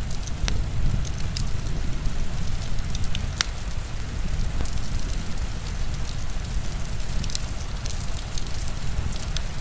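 Heavy rain falling steadily, mixed with a wood fire crackling: many sharp, irregular pops over a continuous deep rushing.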